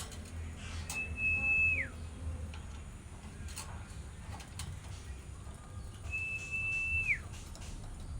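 Two long whistled notes about five seconds apart, each held on one steady pitch and then sliding down sharply at the end.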